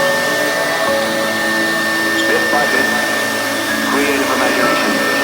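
2040 CNC wood router running: a steady high whine with an even hum of motor noise, and several lower tones that step to new pitches every second or so.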